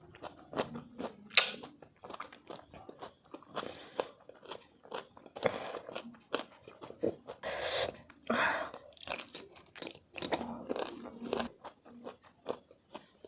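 Close-miked chewing and crunching of sour raw mango, with many irregular crisp bites and a few longer wet mouth sounds in the middle.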